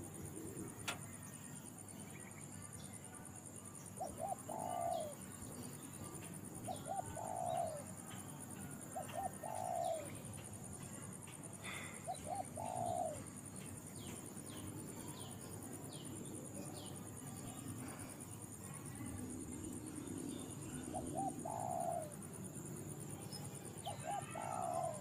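A dove cooing over and over, each call two short notes then a longer falling note, six calls in all with a gap in the middle, over a steady high drone of insects.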